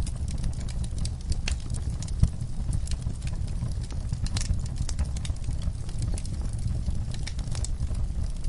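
Wood fire burning in a fireplace: a steady low rumble of flames with irregular sharp crackles and pops from the logs, one pop louder than the rest about two seconds in.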